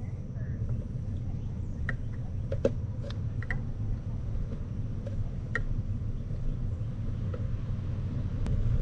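Low, steady rumble of a moving bicycle with wind on the microphone, broken by a few sharp clicks and rattles from the bike.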